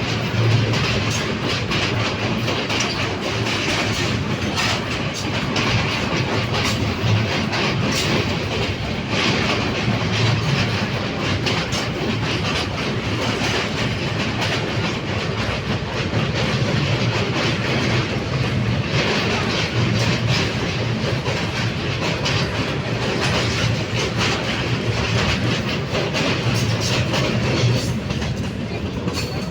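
Broad-gauge passenger train running at speed, its wheels clattering steadily over the rail joints with a continuous low rumble.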